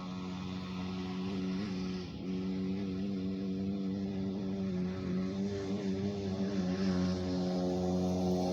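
Small gas dirt bike engine running at a fairly steady speed, its pitch wavering slightly, growing gradually louder.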